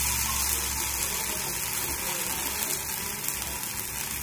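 Oats dosa sizzling in oil on a hot dosa tawa, its second side frying after being turned over: a steady hiss.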